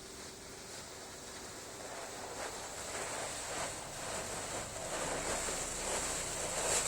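Spray from a Ryko Soft Gloss Max car wash gantry hitting the car, heard from inside the cabin: a steady hiss of liquid that grows louder as the spray comes closer. This is the rain shield coat being applied.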